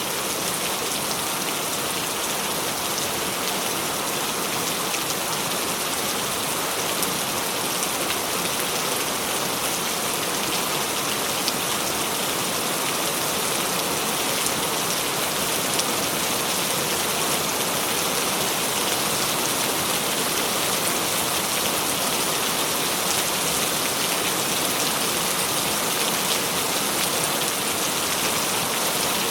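Steady rain falling: a dense, even hiss of countless drops with fine patter, unchanging throughout.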